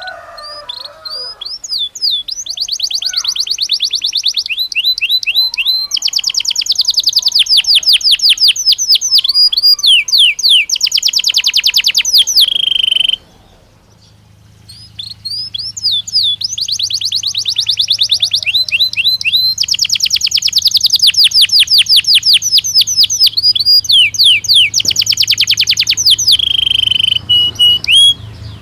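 Belgian canary singing: two long song phrases of rapid, repeated high trills, separated by a short break about halfway through, the second ending in a held note.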